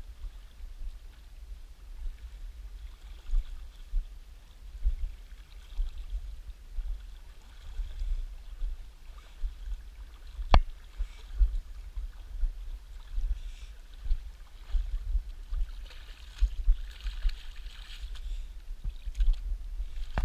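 Gusty low rumble of wind buffeting the microphone over the faint rush of river current, with a single sharp click about halfway through.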